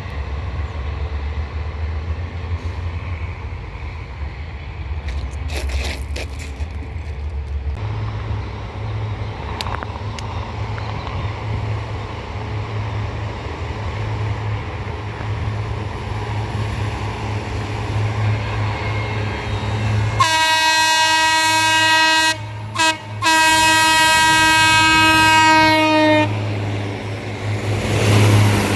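Diesel passenger-train locomotive horn sounding one long blast about two-thirds of the way through, broken twice very briefly, its pitch sagging slightly as it ends. A steady low rumble runs underneath throughout.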